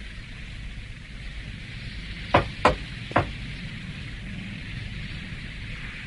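Cartoon battle sound effects: a steady hiss over a low rumble, with three sharp hits in quick succession a little over two seconds in.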